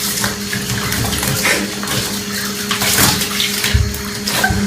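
Water running and splashing in a bathtub, with irregular splashes over a steady low hum.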